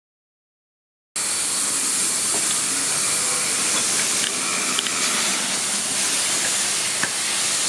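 Steady, loud rushing hiss that starts abruptly about a second in, after a moment of silence, with a few faint ticks over it.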